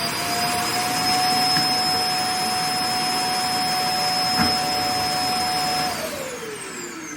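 iRobot Clean Base automatic dirt disposal station running its suction motor to empty the Roomba i8+'s bin: a loud, steady whine with a rush of air and a brief knock partway through. About six seconds in the motor shuts off and winds down, its pitch falling.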